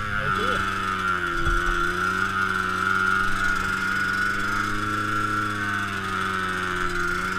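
Enduro motorcycle engines idling steadily, with a small blip in pitch about half a second in and gentle swells of pitch later.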